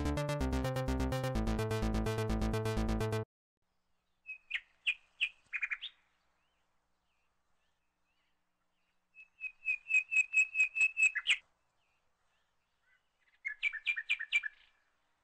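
Background music with a steady beat cuts off suddenly about three seconds in. Three bursts of rapid, high bird chirping follow with silence between them: one near the fourth second, one near the tenth, and one near the end.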